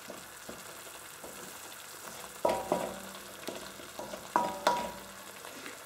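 Curry paste sizzling in a stainless steel wok while a wooden spoon stirs and scrapes it. From about two and a half seconds in, the spoon knocks against the wok a few times, each knock ringing briefly.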